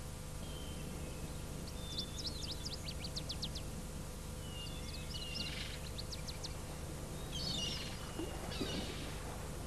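Small birds chirping, with short whistled notes and quick trills, the busiest runs about two and five seconds in, over a steady low hum.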